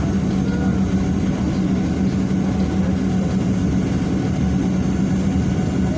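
Boeing 737-800 airliner's CFM56 jet engines running: an even, unchanging drone with a strong steady low hum.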